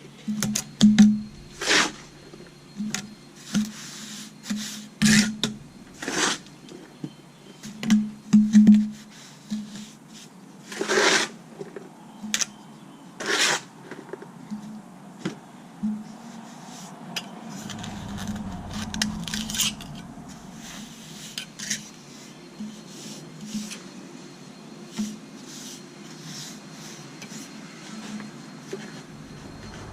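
Metal hand tool scraping and clinking through a stiff, dry sand-and-portland concrete mix. Irregular sharp scrapes and knocks come about a second apart, thinning out after the first half.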